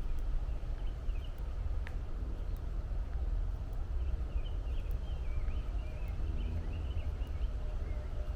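A small songbird twittering in quick, chittering phrases from about four seconds in to near the end, after a few short chirps around a second in, over a steady low rumble.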